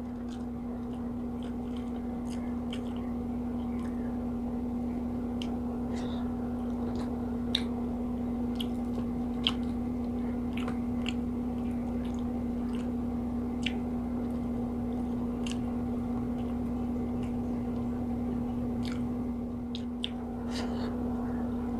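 Chewing and small, scattered mouth clicks from someone eating fried tilapia and rice by hand, over a steady low hum.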